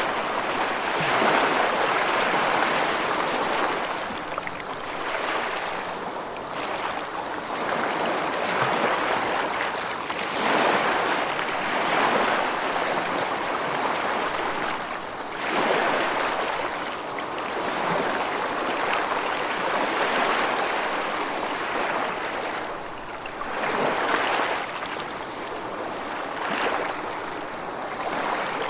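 Moving water rushing and splashing, swelling and easing irregularly every few seconds.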